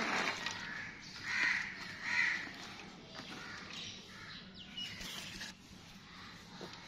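Two short harsh bird calls, about one and a half and two seconds in.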